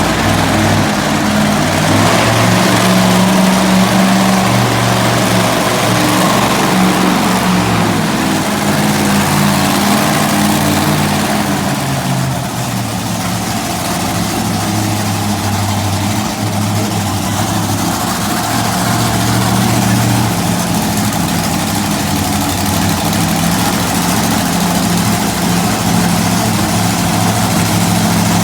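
Monster truck engines running loud and steady near idle, their pitch stepping up and down a few times with light revs.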